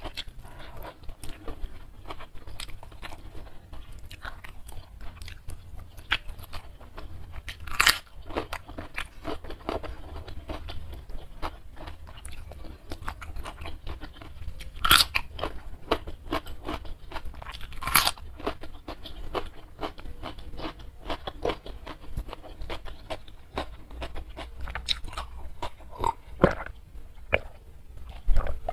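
Close-miked eating by hand: steady wet chewing and crunching of crispy fried catfish and raw cucumber, with a few loud, sharp crunchy bites standing out.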